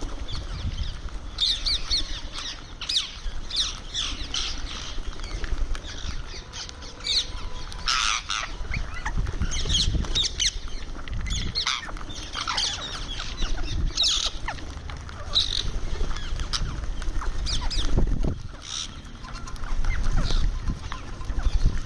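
Indian ringneck parrot (rose-ringed parakeet) giving short, shrill squawking calls again and again while feeding, with a low rumble underneath at times.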